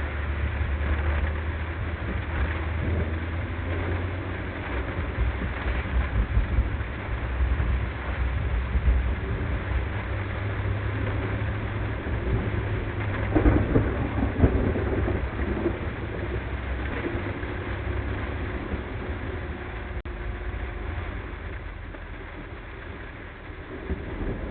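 A car driving in a heavy thunderstorm, sped up to double speed: a steady low road rumble under an even hiss of rain. About thirteen seconds in there is a louder burst of rumbling lasting a couple of seconds.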